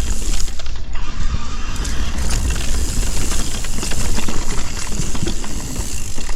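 Mountain bike descending a rocky dirt trail: wind rumbling on the camera microphone, with a steady clatter of tyres and bike parts rattling over roots and rocks.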